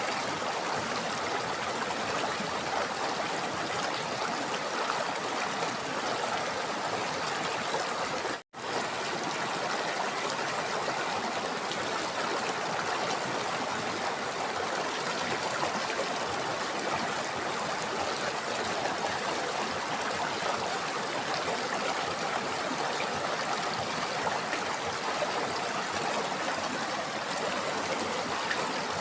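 River water flowing steadily. The sound cuts out completely for an instant about eight seconds in, then resumes.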